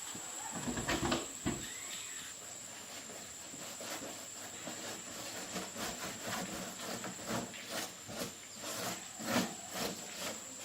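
Irregular small clicks and taps, more frequent in the second half, over a steady hiss with a thin high whine.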